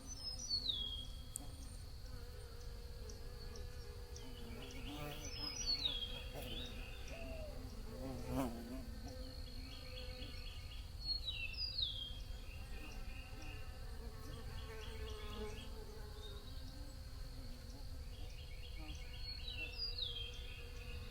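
Bees buzzing steadily. A high, falling call with a short run of chirps comes back four times, about every five to six seconds.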